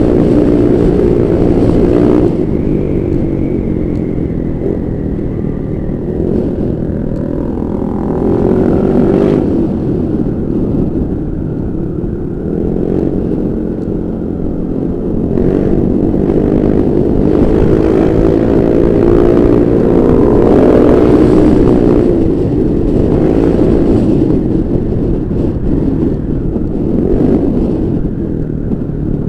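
Honda Vario 125 scooter's single-cylinder four-stroke engine running through an aftermarket Pro Liner racing exhaust while being ridden, its note rising and falling repeatedly with the throttle.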